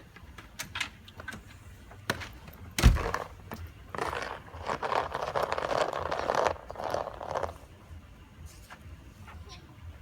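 Snow shovel scraping and crunching through snow for a few seconds, after a single heavy thump about three seconds in.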